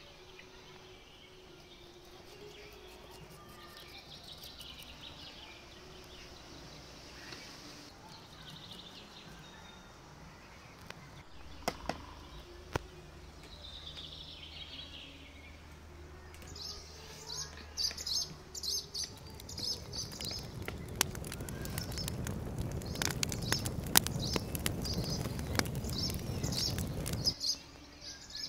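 Small birds chirping, with short high chirps repeating steadily through the second half. Over the last several seconds a louder rustling, crackling noise builds up and cuts off suddenly near the end.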